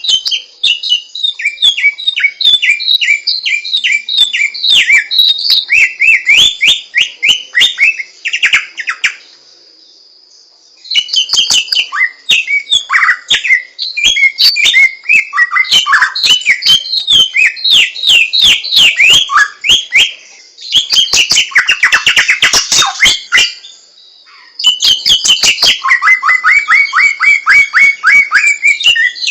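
Samyong songbird singing long, fast phrases of sharp, descending whistled notes, briefly pausing twice.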